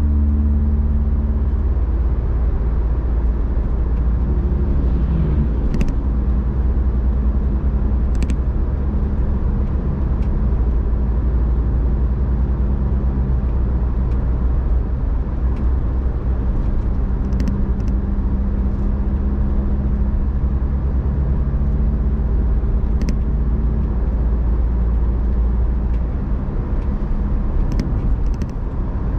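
Car driving steadily, with a deep, continuous road rumble and a steady engine hum that shifts pitch slightly now and then. A few light clicks come through at scattered moments.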